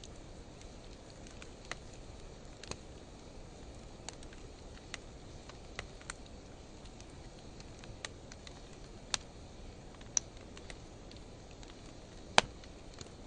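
Driftwood and hardwood campfire burning in a fire pit, slowed to half speed: a steady low hiss with about a dozen scattered sharp crackles and pops, the loudest pop near the end.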